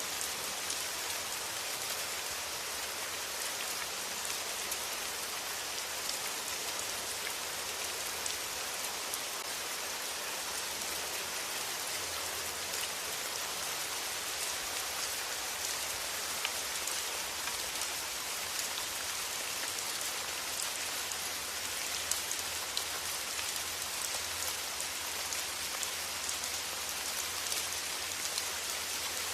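Steady rain, an even hiss with many separate drops ticking close by.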